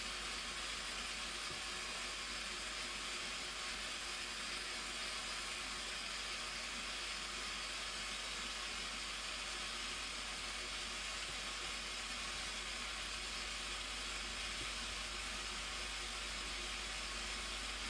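Blue Nile Falls: the steady, unbroken rush of falling water, an even hiss with no individual events.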